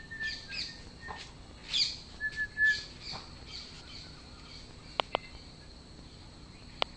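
Wild birds chirping and whistling in short notes through the first three seconds or so, over a steady high-pitched whine. Three sharp clicks come near the end.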